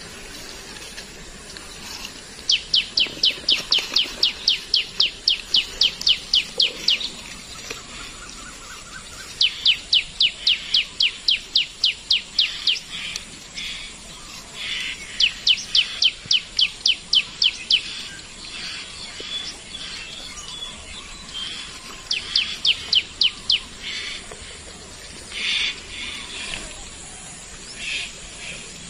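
A bird calling in long runs of rapid, high, evenly repeated notes, about five a second, four runs with pauses of a few seconds between them.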